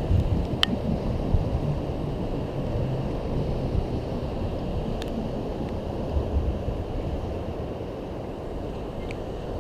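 Steady low wind rumble on the microphone, with a few faint sharp ticks.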